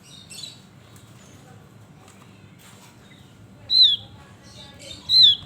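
Javan grey-throated white-eye (opior jawa) calling: a faint chirp near the start, then two loud, short whistled notes that slide down in pitch, about a second and a half apart.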